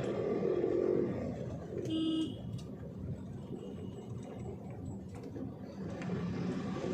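Truck engine and road noise from inside the moving lorry's cab, with a short vehicle horn toot about two seconds in.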